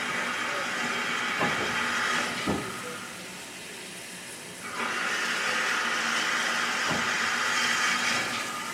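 Steam locomotive hissing steam steadily. The hiss drops away for a couple of seconds about three seconds in, then resumes, with a few short knocks along the way.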